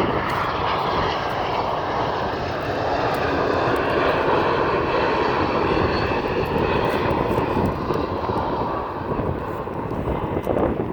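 Airliner flying low overhead on landing approach, its engines making a loud, steady noise that eases a little in the last few seconds.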